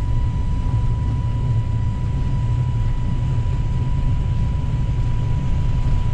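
Cockpit noise of an Airbus A320neo accelerating down the runway on its takeoff roll: engines at takeoff thrust and the rolling of the gear give a steady low rumble. A thin steady high tone runs over it.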